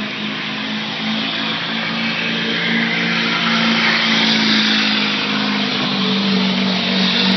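Chevy Duramax turbodiesel V8 pickup running flat out under load while pulling a weight sled, a loud, steady drone held at high revs.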